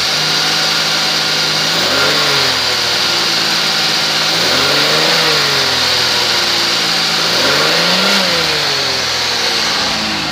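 2005 Chevrolet Impala's V6 engine idling just after start-up, with the throttle blipped three times. Each time it revs up briefly and falls back to idle.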